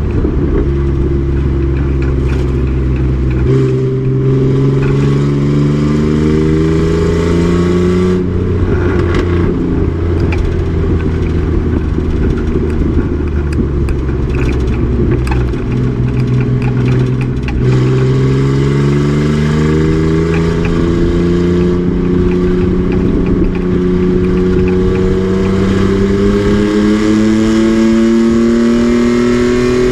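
Race truck's engine under hard acceleration. Its pitch climbs steadily and drops sharply at upshifts, once a few seconds in and again just past halfway, then climbs again.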